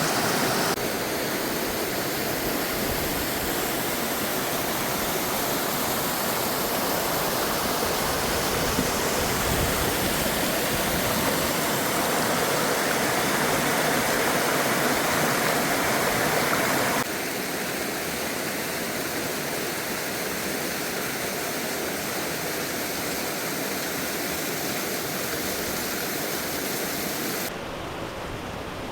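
Steady rush of water from a mountain waterfall pouring into its pool, shifting abruptly in level and tone about a second in, about seventeen seconds in, and again near the end.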